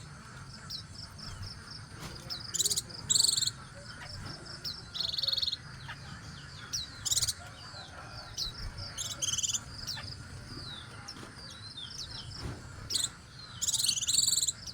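Small birds chirping and twittering in short, high-pitched calls, some in quick sweeps, with louder clusters of chirps every few seconds.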